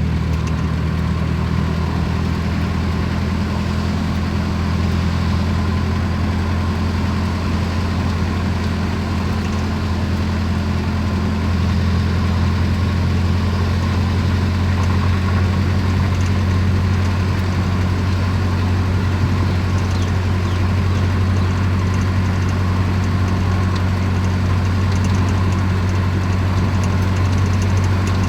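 A vehicle's engine running with a steady low drone while the vehicle travels on at an even pace.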